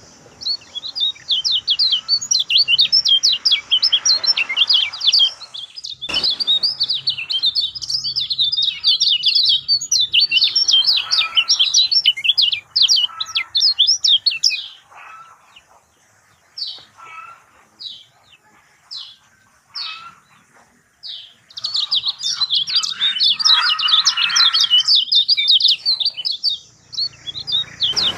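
Kecial kuning white-eye singing a fast, high, run-on chattering song. About halfway through it breaks into a few separate short chirps for several seconds, then resumes the dense chatter.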